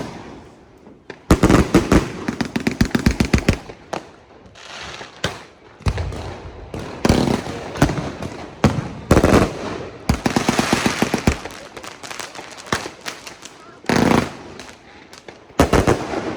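New Year's Eve fireworks and firecrackers going off: rapid runs of bangs, each lasting a second or two, mixed with separate single loud bangs, two of them in the last few seconds.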